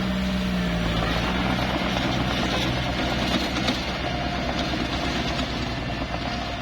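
Small bulldozer's diesel engine running steadily under load, its pitch dipping slightly just after the start, with a broad rattling noise over it.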